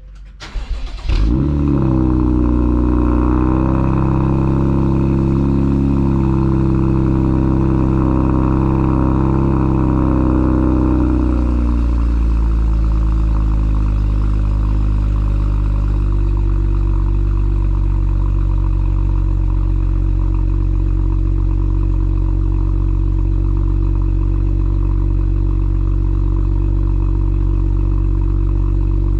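Alpina B3 Biturbo's N55-based inline-six, fitted with an Akrapovič exhaust, cold-starting. After a brief crank it catches about a second in and settles into a raised cold-start idle. About twelve seconds in, the idle drops to a lower, steady pitch.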